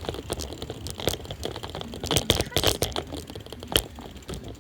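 Irregular clicking and knocking rattle of a bicycle ridden over bumpy ground, with the phone jolting in its handlebar phone holder; a sharper knock comes near the end.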